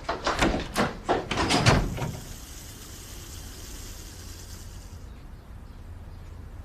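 A door being moved as people leave: several knocks and clunks in the first two seconds, then a soft hiss lasting about three seconds, over a low steady hum.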